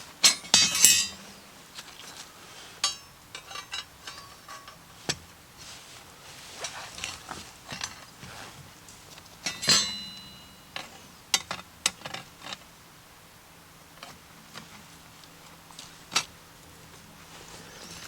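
Cookware and metal utensils being handled, with irregular clinks and knocks. One louder metallic clink about ten seconds in rings briefly.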